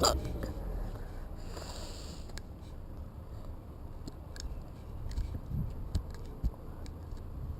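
Low, unsteady rumble of outdoor wind on the microphone, with a few faint clicks.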